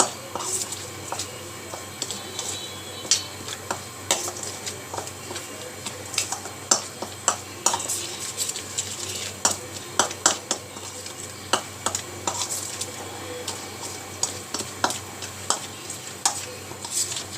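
Chicken wings being mixed with spices and ginger-garlic paste in a bowl: a utensil clicks and scrapes against the bowl in irregular knocks, a few a second.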